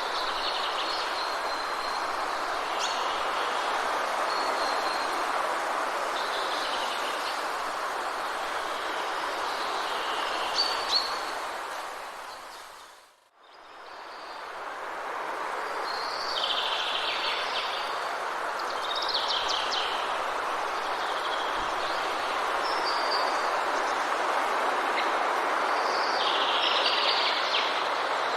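Forest ambience: songbirds calling in short repeated phrases over a steady rushing background noise. About halfway through, the whole sound fades out almost to silence and then fades back in.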